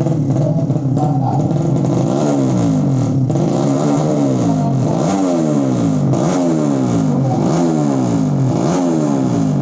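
Modified 200 cc underbone drag-race motorcycle engine being revved over and over: the pitch jumps up and then falls away over about a second, about seven times.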